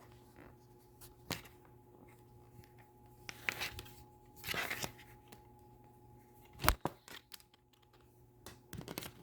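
Harness strap of a Graco SlimSnacker high chair being pulled and worked through the slots in the seat, a few short rustles and scrapes. A single sharp click or knock about two-thirds of the way through is the loudest sound, with a few small clicks near the end.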